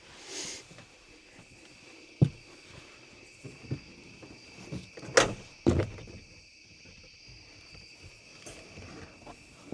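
A few sharp knocks and thumps, the loudest about five seconds in, as someone climbs into the back of a pickup truck under a camper shell. Crickets chirp steadily in the background.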